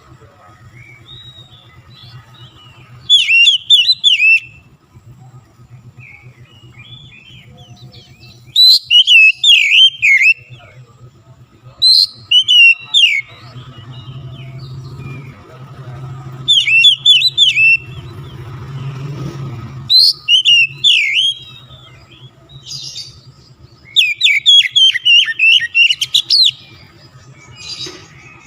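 Oriental magpie-robin singing in loud bursts of rapid, sweeping whistles and chirps, a new phrase every few seconds, over a steady low hum.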